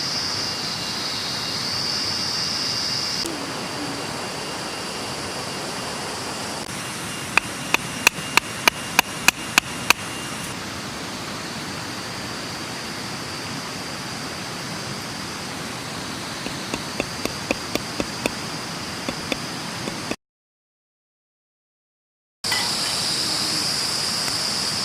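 River water rushing in a steady roar, with two runs of sharp clicks a few to the second partway through. The sound cuts out completely for about two seconds near the end.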